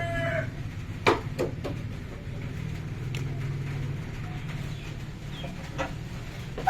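A steady low hum with a few sharp clicks, around a second in and again later, and the end of a rooster's crow at the very start.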